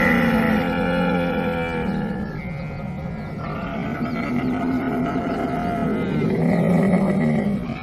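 Camel calling in long, continuous calls with a rough, pulsing tone. The calls ease off in loudness about a third of the way in and swell again near the end.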